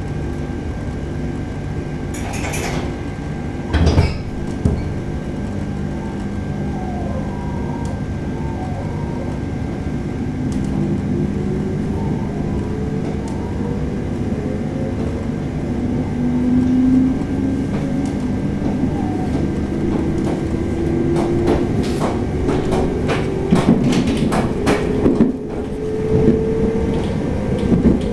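Electric local train starting from a station: doors thud shut about four seconds in, then the traction motors' whine climbs steadily in pitch as the train accelerates. Near the end, a run of sharp clicks as the wheels cross rail joints.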